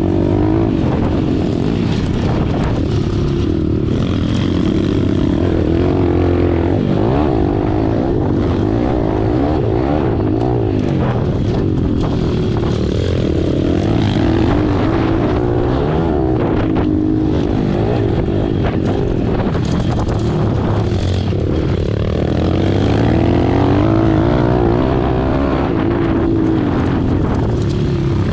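Pit bike's small single-cylinder four-stroke engine at racing speed, the revs climbing and dropping again and again through gear changes and corners.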